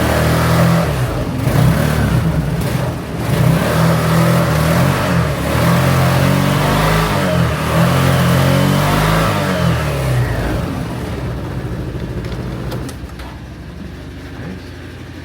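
Honda Helix scooter's single-cylinder four-stroke engine, cold-started at 1°F, being revved up and down several times. It then drops back to a quieter, steady idle about eleven seconds in.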